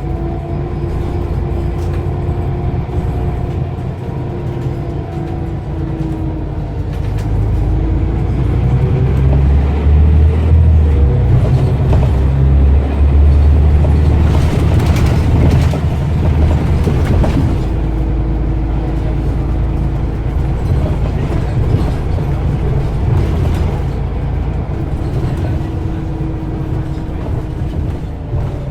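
Scania CN94UB OmniCity bus engine being driven hard under load. It grows louder and heavier about a third of the way in, then eases back, with a whine that rises and falls over it.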